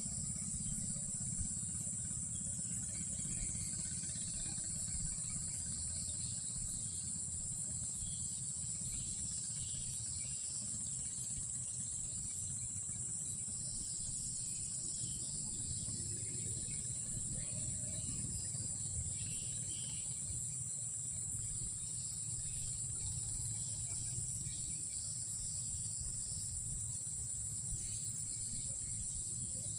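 Night insect chorus: crickets chirring in a steady high-pitched drone, with faint scattered chirps, over a constant low rumble.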